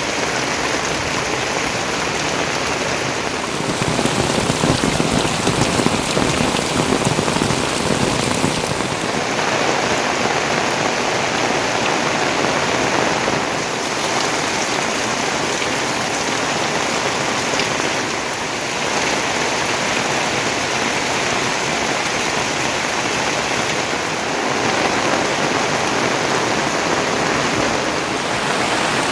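Heavy rain falling steadily, a dense even hiss of rain on surfaces whose character shifts slightly every few seconds.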